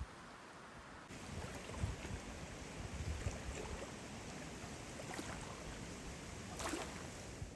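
Steady outdoor noise of wind and water, with irregular low rumbles of wind buffeting the microphone. It grows louder about a second in, and there is a brief louder hiss near the end.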